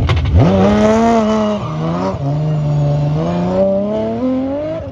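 Rally car engine running hard under acceleration: the revs rise sharply at the start, dip twice around the two-second mark, then climb steadily again.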